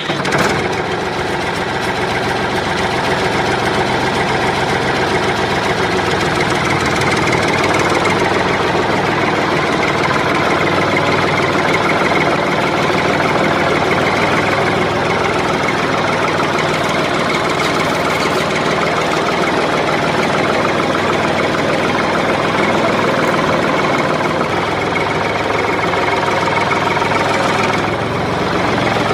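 Model tractor's engine sound, running steadily like a diesel at idle with no change in speed.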